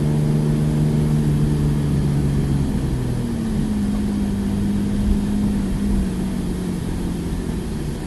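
Porsche 991 GT3's flat-six engine running at low, steady revs, heard from inside the cabin. Its note steps down in pitch about three seconds in as the car eases off.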